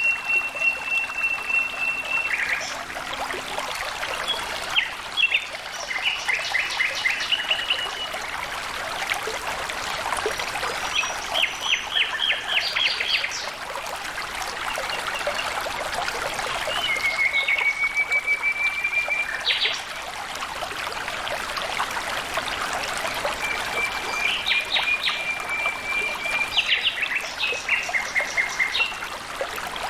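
Running water trickling steadily, with birds calling over it again and again: long level whistles alternating with quick rattling trills.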